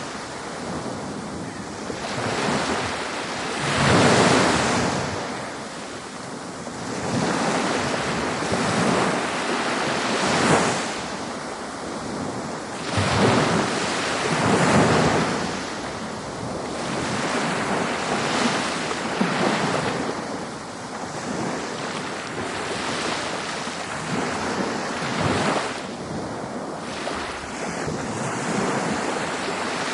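Ocean waves breaking on a beach: continuous surf that swells and ebbs, with a wave washing in every few seconds.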